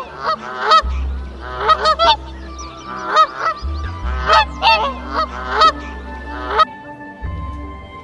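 Waterfowl honking, goose-like calls coming in quick clusters of short, arching honks. The honks stop about two-thirds of the way through, and music with held notes takes over.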